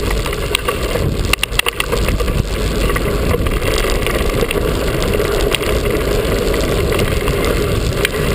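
Mountain bike riding on a dirt trail: a steady rumble with scattered clicks and rattles throughout.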